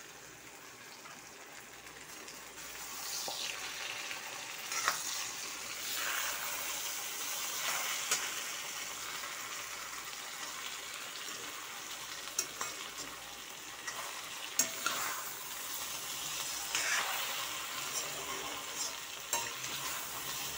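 Potato wedges and eggplant slices sizzling in oil in a pan, with a metal spatula scraping and turning them every few seconds and now and then clicking against the pan.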